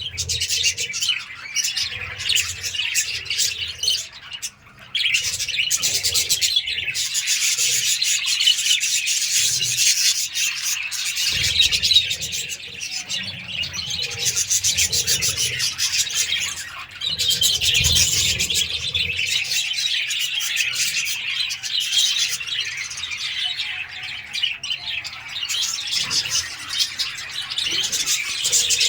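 Budgerigars (budgies) chirping and chattering continuously in a dense, rapid stream of high chirps.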